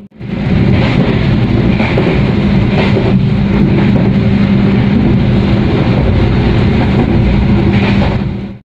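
Steady rumble and rush of an Indonesian executive passenger train running at speed, heard from inside the carriage through the window glass, with a constant low hum beneath it. The sound fades in just after the start and fades out near the end.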